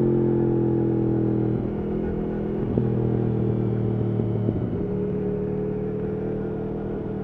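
Yamaha R1 RN22's crossplane inline-four with an Akrapovič exhaust, running at steady revs under the rider. About a second and a half in the note changes and drops a little in loudness, with a few short clicks, then it settles again at a steady pitch.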